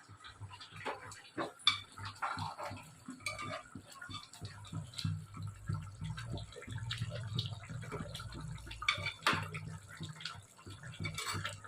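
Chicken curry simmering in a pot with small irregular bubbling pops, and a spoon knocking against the pot now and then. A low hum comes in about four seconds in.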